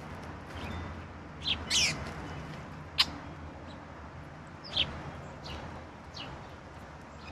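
Backyard songbirds calling: short downward-sliding chip notes, with a louder call about a second and a half in. A single sharp click about three seconds in.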